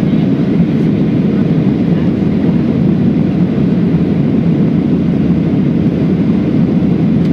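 Steady cabin noise of an airliner in flight: engine and airflow noise heard from inside the passenger cabin, even and low-pitched with no change.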